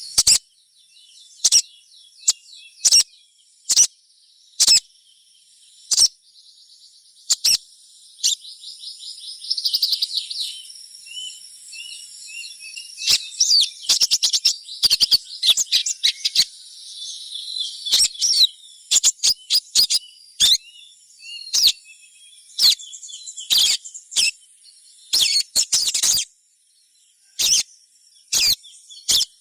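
Little spiderhunters (sogon) chirping: sharp, short high call notes about once a second, then a denser run of high twittering and rapid chirps through the middle, with a brief lull near the end. These are the chirping calls of young birds, played to lure sogon into singing.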